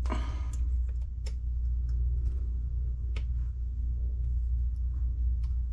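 Scattered small clicks and taps of small metal RC-car parts being handled and fitted by hand, over a steady low hum. A short pitched sound comes right at the start.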